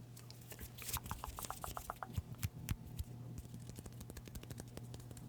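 Close-miked crackling and clicking of small folded paper slips being handled, with a quick run of ticks about a second in, over a steady low hum.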